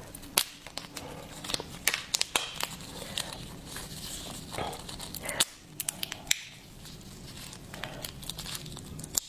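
Hard lobster shell being cracked and peeled apart by hand: scattered sharp cracks and crackles, some close together, with soft rustling between them.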